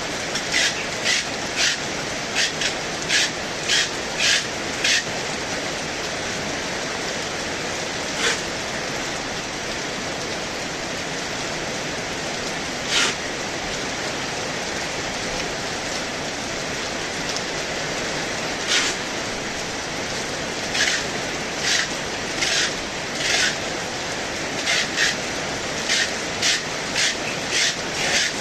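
Heavy rain falling steadily as an even hiss, with short, sharp splashes or ticks that come in quick runs near the start and again in the last third, and singly in between.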